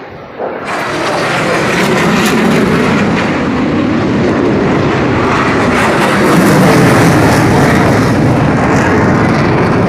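Aircraft engine noise from a plane flying past, coming in sharply about half a second in and staying loud, loudest about two-thirds of the way through.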